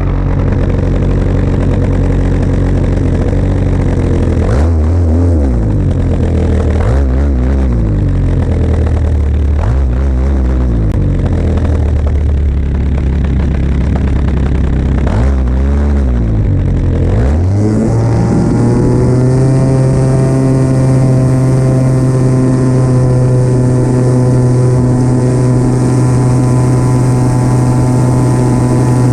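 Model airplane engine heard close up from on board. Its speed rises and falls several times, then it opens up at about 17 s to a high, steady full-throttle run.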